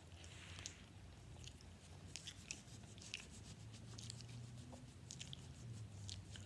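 A person chewing white chocolate with the mouth open: faint, irregular wet smacks and clicks, several a second.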